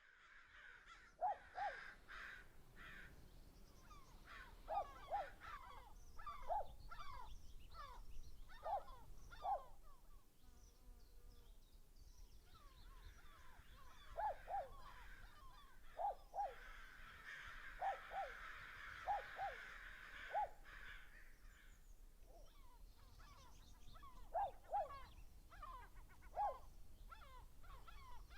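Wild birds calling: short down-sliding notes, often in pairs, repeated every second or two, with higher twittering chirps over them.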